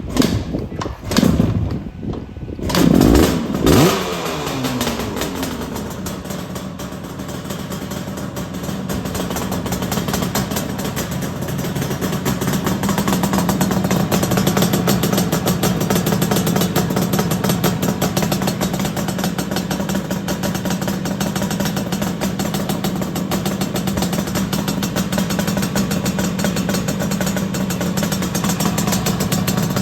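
Yamaha RX350 air-cooled two-stroke twin being started: a few knocks, then it catches about three seconds in with two short blips of revs that fall away, and settles into a steady idle.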